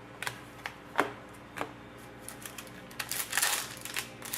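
Sports trading cards being handled: a few sharp clicks as cards are flicked and set down, with one louder snap about a second in. A denser patch of card clicking and rustling follows about three seconds in.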